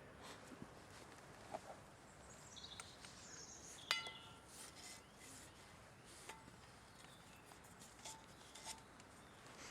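Quiet outdoors with a bird's short run of high notes stepping down in pitch. Just before four seconds in there is one sharp metallic clink that rings briefly, like the metal pot or its bail knocking. A few lighter clinks follow.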